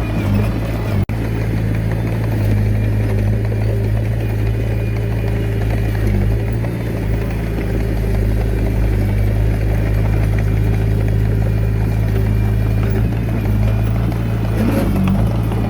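Diesel engine of a Komatsu D21A mini bulldozer running at a steady speed, with a very brief break about a second in.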